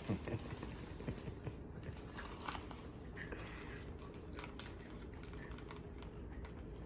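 A dog chewing Goldfish crackers, with irregular small crunches and clicks of the teeth and crackers. One sharper crunch comes right at the start.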